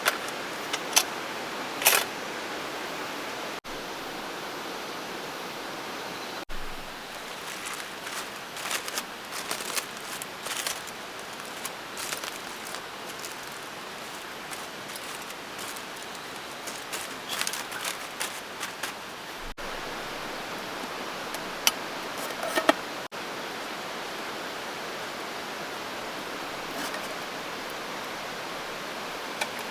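Camp cookware being handled over a steady hiss, with scattered small clicks, taps and knocks, a few sharper ones near the start and about two-thirds of the way in.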